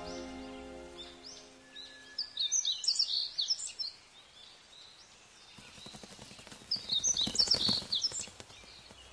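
Small birds chirping in two quick bunches of short, high calls, about two and a half seconds in and again about seven seconds in. Sustained background music fades out in the first two seconds, and a soft hiss swells under the second bunch of chirps.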